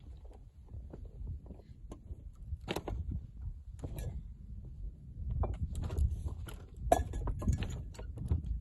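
Wind buffeting the microphone in a rough low rumble that gets stronger about halfway through, with scattered clicks and knocks of footsteps and gear while walking a stony path.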